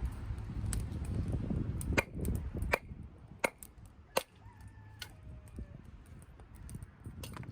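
Softwood fire crackling in a small wood-burning camp stove: a low rumble of flame with several sharp, separate pops as the conifer wood burns.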